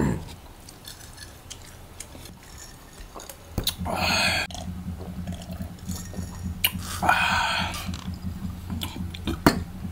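Close-miked mouth sounds of eating: chewing with small wet clicks and lip smacks, broken by two short rushing sounds, one about four seconds in and one about seven seconds in. A low steady hum sets in after about three and a half seconds.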